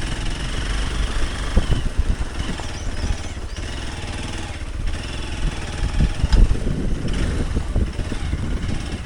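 Hero Xpulse 200 Pro's single-cylinder engine running under way on a rough off-road track, with irregular knocks and rattles from the bumps.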